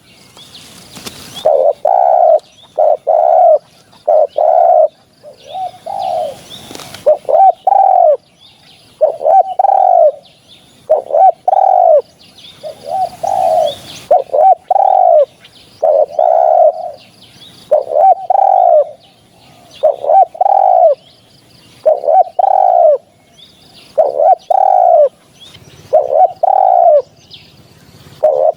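Spotted dove cooing over and over, deep coo notes in short phrases repeating about once a second. A few short bursts of noise are heard between the calls.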